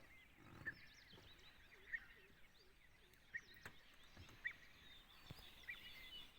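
Birds calling: a short, sharp chirp repeats five times, about once every second and a quarter, over a faint chorus of smaller twitters.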